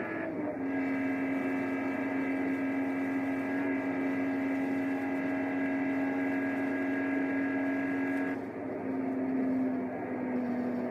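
1997 BMW M3's straight-six engine under hard acceleration at high speed: its pitch drops with an upshift about half a second in, then it holds a steady drone at nearly constant revs, and falls in pitch in a couple of steps near the end as the revs come down.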